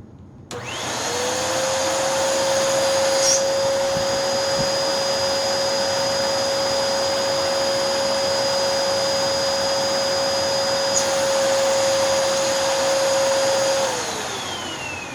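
2009 Hoover NanoLite upright vacuum motor switched on, spinning up with a rising whine into a steady high-pitched run over loud rushing air, its suction relief hole covered by a finger. Near the end it is switched off and winds down with a falling whine.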